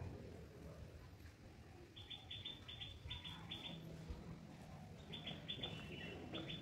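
Birds chirping in the garden trees: quick runs of short, high notes, one run about two seconds in and another about five seconds in, over faint low background rumble.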